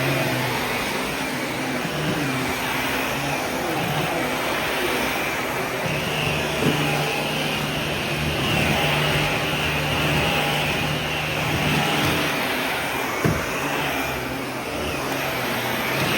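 Vacuum cleaner running steadily, with a low hum and a higher whine that drifts slightly in pitch. Two brief knocks come through, one midway and one near the end.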